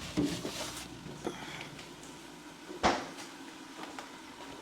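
Kitchen handling noises: a few light knocks and one sharp clack a little before three seconds in, like a cupboard or container being handled while ingredients are fetched.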